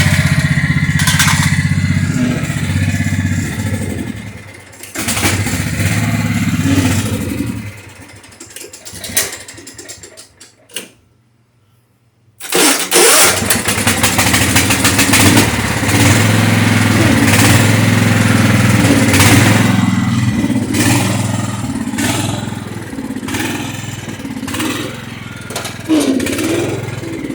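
Craftsman lawn tractor's Kohler Command 16.5 hp engine running, then dying down and sputtering out over several seconds. It is near silent for about two seconds, then starts again abruptly just past the middle and runs on steadily.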